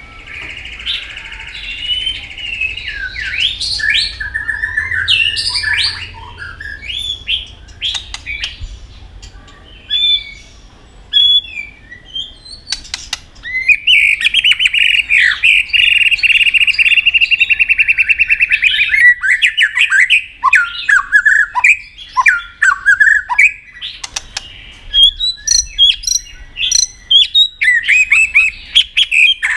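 White-rumped shama singing a varied song of whistled phrases, with a loud, rapid trill in the middle and a run of short, sharp notes near the end.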